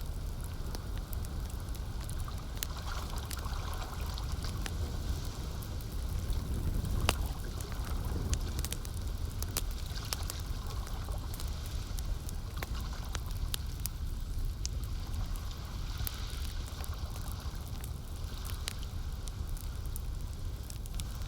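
Campfire crackling with scattered sharp pops over a steady low rumble, mixed with the trickling sound of lake water.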